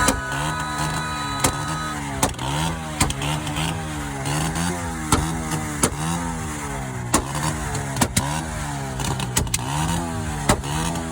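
Vehicle engine revved over and over in short, evenly spaced blips, rising and falling about once every three-quarters of a second, with sharp cracks in between.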